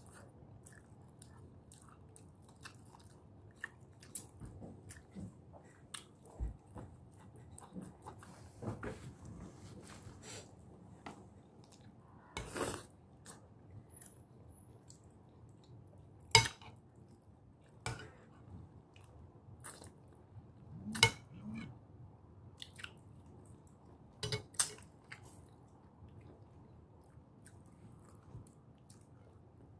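Close-up chewing and lip smacking of a person eating salmon with her fingers: soft, irregular wet mouth clicks, with a few louder smacks scattered through.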